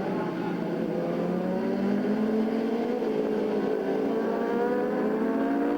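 Superbike race engine accelerating hard, its pitch climbing steadily from about a second and a half in.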